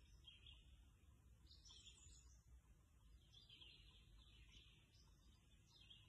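Faint birdsong: scattered, high-pitched short calls and phrases from several birds, over a low, steady background rumble.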